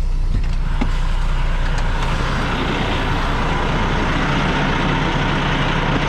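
Semi truck's diesel engine running steadily at low speed, with a rushing noise that builds about a second in.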